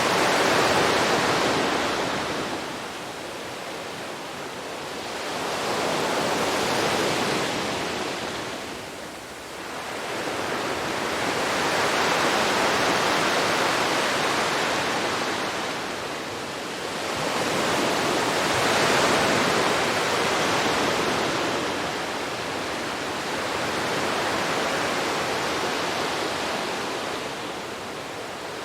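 Sea waves breaking and washing onto a beach, the surf swelling and falling back in slow surges about every six seconds.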